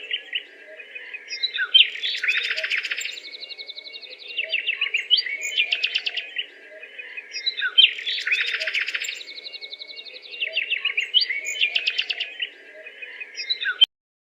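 Birdsong: dense runs of rapid chirps and trills, the same passage repeating about every six seconds, cutting off suddenly near the end.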